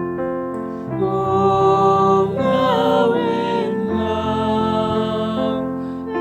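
Slow piano music, held chords under a melody.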